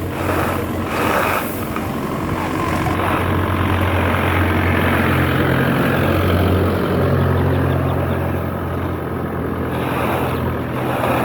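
An engine running steadily, a low hum that shifts slightly in pitch about seven seconds in.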